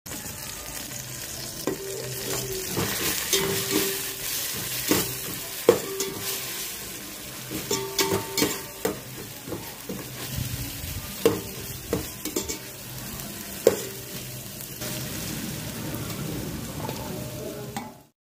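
Onions, mint and spices sizzling in hot oil in a stainless steel pot, stirred with a steel slotted ladle that scrapes and knocks irregularly against the pot. Near the end the knocking stops and only the sizzle goes on.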